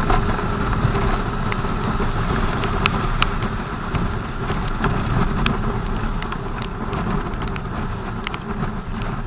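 BMW R 1200 GS flat-twin motorcycle engine running with a steady rumble of road noise, with scattered sharp ticks throughout.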